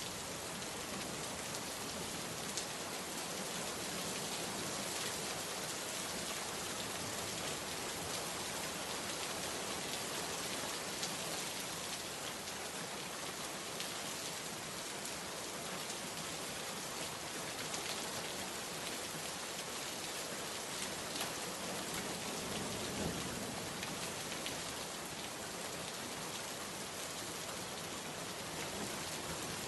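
Heavy rain falling steadily: a dense, even hiss of many drops on surfaces, with scattered single louder drop taps.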